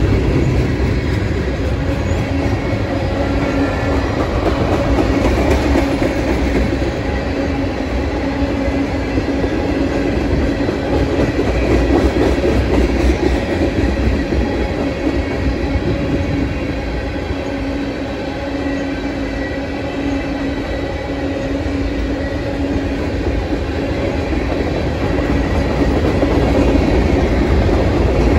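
Freight cars (gondolas, tank cars and boxcars) of a mixed freight train rolling past steadily, with the continuous rumble and clatter of steel wheels over the rails.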